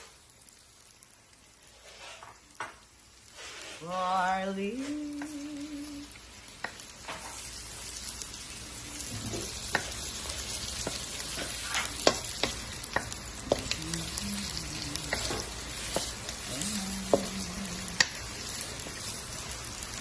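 Chorizo and chopped garlic frying in oil in a nonstick wok, the sizzle building from about six seconds in and holding steady. A wooden spatula stirs through it, with many sharp clicks and ticks against the pan.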